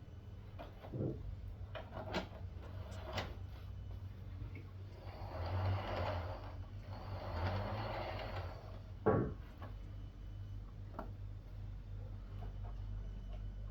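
HO scale DC model locomotive running on the track: a steady low motor hum with scattered clicks of the wheels over rail joints. A rolling rumble swells in the middle and fades again, and one sharper click comes about nine seconds in.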